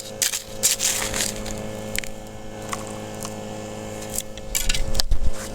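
Dry gravel and rocks scraped and crunched, in irregular short rattles with a denser burst near the end, over a steady low hum.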